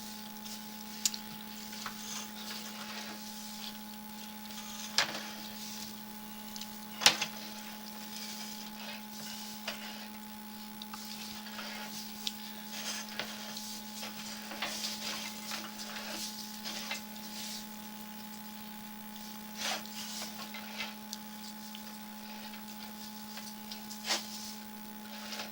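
Steady electrical hum from a sewer inspection camera rig, with irregular sharp clicks and knocks as the push rod is fed along the pipe; the loudest knock comes about seven seconds in.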